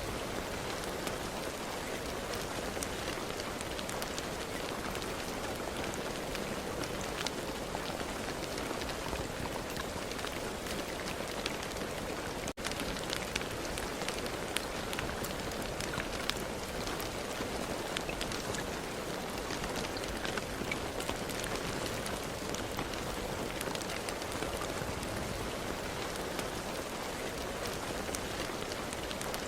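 Steady rain falling, with many separate drop hits ticking on a surface throughout. There is a momentary gap in the sound a little before halfway.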